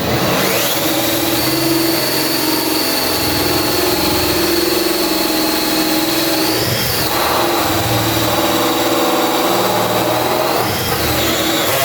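Power drill driving a hole saw from a door-lock installation kit through a plywood door. The motor's steady whine spins up at the start, sags and recovers about seven seconds in and again near the end as the saw bites into the wood, then cuts off.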